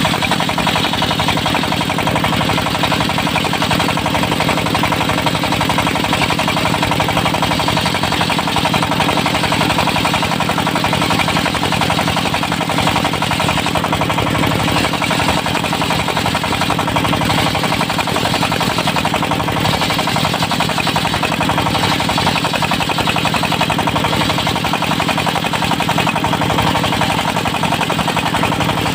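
Diesel-driven portable circular-saw mill running steadily with a fast, even chugging, as it rips a teak log into boards.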